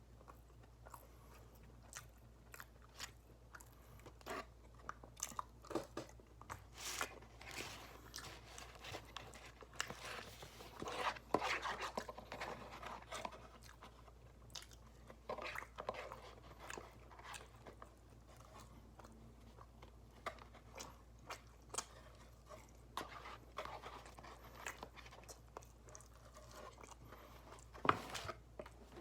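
A person chewing and crunching mouthfuls of loaded fries with brisket and cheese, with many irregular mouth clicks and bites.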